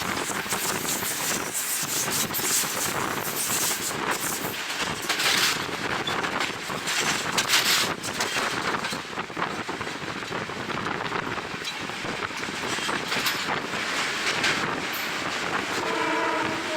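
Wind buffeting the microphone at an open train window over the running noise and clatter of a moving passenger train. About a second before the end, a steady pitched tone with several overtones sets in.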